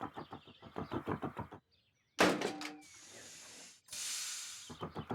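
Cartoon tractor engine chugging in an even rhythm of about seven beats a second, which stops about a second and a half in. After a short gap comes a sharp clang with ringing tones, then hissing, and the engine chugging starts again near the end.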